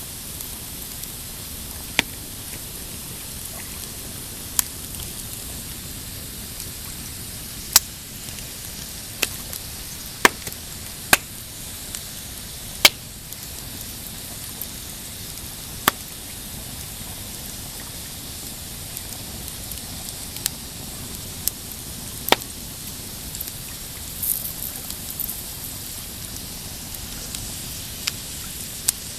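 Pine campfire crackling: a dozen or so sharp pops and snaps at irregular intervals over a steady hiss.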